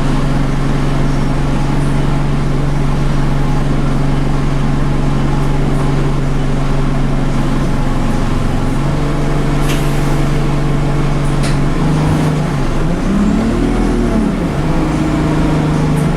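Scania bus's diesel engine idling steadily, with two short hisses about two thirds of the way in. Near the end the bus pulls away: the engine note rises and falls through the gears.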